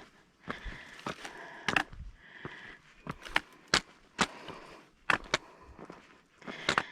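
Footsteps of a hiker crunching along a woodland trail, an uneven run of sharp steps about one or two a second.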